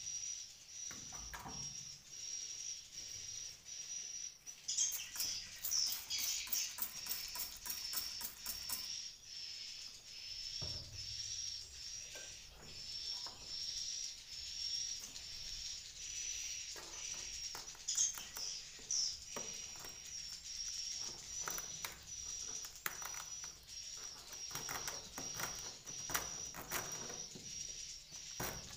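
Edible-nest swiftlets in a swiftlet house: continuous high-pitched twittering with runs of rapid clicks, the densest about five to nine seconds in.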